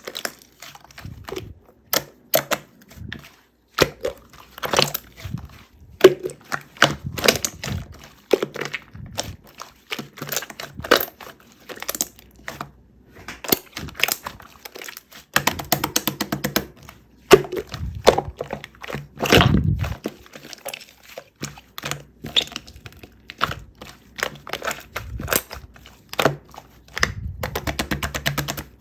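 Pudding-textured slime with chocolate-chip bits being pressed and squished by hand, giving a steady run of sharp pops, clicks and crackles with occasional wetter squelches.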